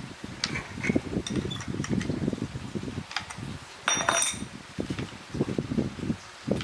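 Irregular low knocks and handling thumps, with a sharp metallic clink that rings briefly about four seconds in.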